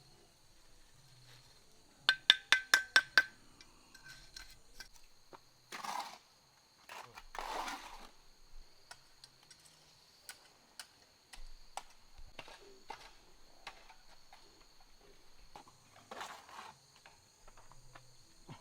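A quick run of about seven sharp, ringing knocks, like metal or hard objects being struck. They are followed by two brief rustling swishes and scattered lighter knocks.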